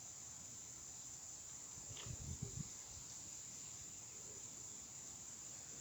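Crickets chirring in a steady, continuous high trill. A brief low rumble of a few thumps comes about two seconds in.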